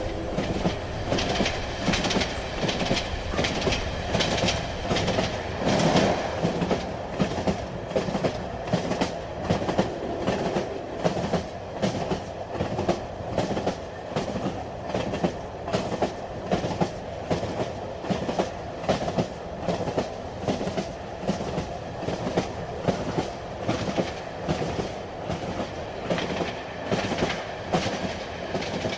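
Train running on the rails: a steady rumble with regular clicks of the wheels passing over rail joints, swelling louder briefly about six seconds in.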